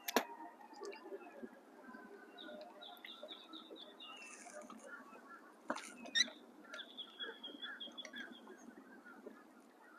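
Birds calling in the background: rapid trilled chirps, over a low outdoor hiss. A sharp click comes at the start and two more about six seconds in.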